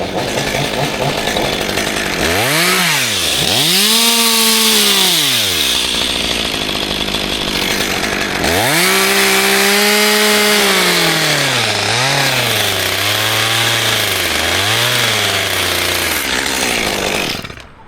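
Chainsaw cutting an oak tree, its engine pitch sweeping up and down repeatedly as it revs, then cutting off near the end.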